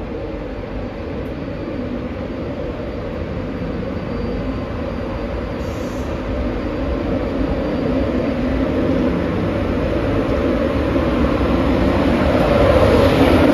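Train running through the station, a steady rail and traction noise that grows louder to a peak near the end as the train draws close.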